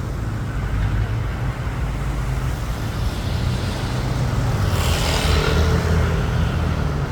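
Road traffic: a steady low vehicle engine rumble, with a brief rush of hiss about five seconds in.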